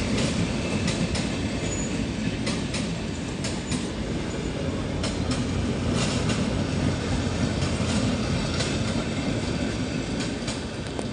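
Jhelum Express passenger train rolling slowly as it brakes for a station stop: a steady low rumble with irregular clicks of the wheels over the rail joints, gradually getting quieter.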